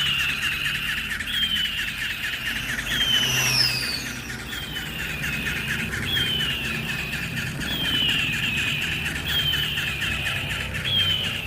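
Battery-powered toy eagle playing its electronic screech, a short falling cry repeated about once a second, with one higher, longer cry about three and a half seconds in. Under it runs a steady fast buzz, the toy's wing-flapping mechanism.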